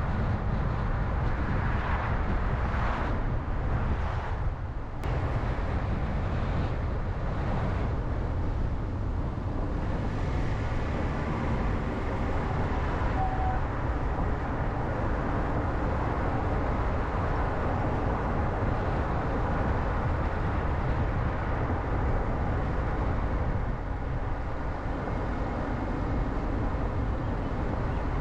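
Car driving on a road: a steady low rumble of tyre and engine noise, with a few brief swells in the first few seconds.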